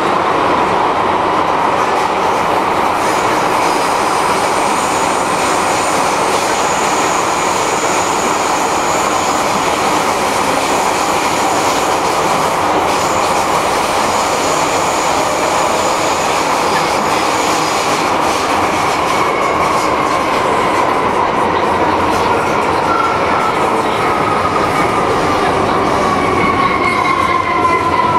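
MTR M-Train metro car heard from on board, running with a steady rumble and rail noise and a thin high wheel squeal through the middle. Over the last several seconds a whine falls steadily in pitch as the train slows.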